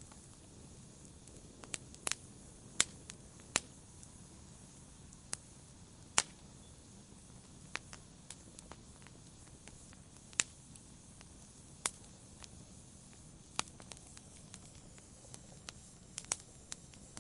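Wood fire in a fireplace crackling: sharp pops and snaps at irregular intervals, often a second or more apart, over a faint steady hiss. A quick cluster of pops comes near the end.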